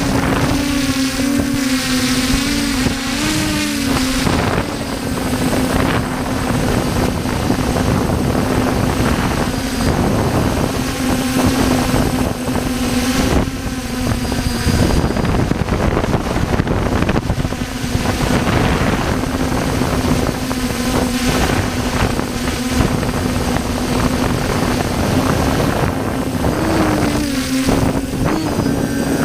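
Helicopter running: a steady, loud drone of engine and rotor noise with a held tone that wavers briefly in places.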